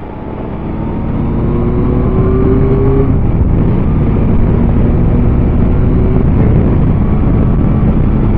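Yamaha Tracer 9's 890 cc inline-three engine pulling under acceleration, its pitch rising for about three seconds, then dropping at a gear change and holding steady at cruising speed. Heavy wind rush over the helmet microphone runs underneath.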